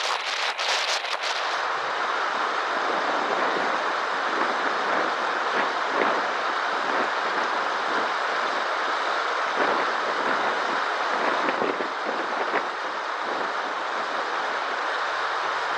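Floodwater rushing steadily across a road, a constant wash of water noise. Brief crackling clicks in the first second or so, then the sound changes abruptly.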